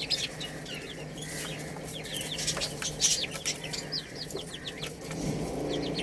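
Baby chicks peeping in many short, high chirps that fall in pitch, with low clucking underneath.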